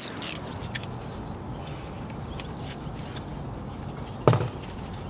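Scattered clicks of a hex socket and extension working a brake caliper guide bolt, with one sharp metal knock about four seconds in, over a steady background hiss.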